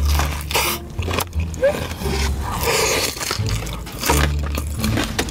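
Close-up eating sounds: wet chewing, smacking and clicking of the mouth on saucy tteokbokki and a fried bite taken from chopsticks.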